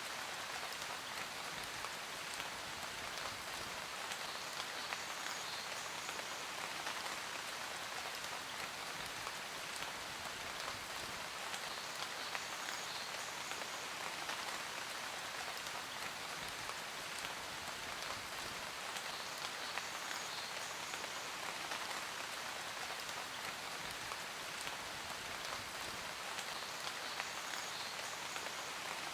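Steady rain falling, an even hiss of many drops pattering on a surface, with no change in intensity.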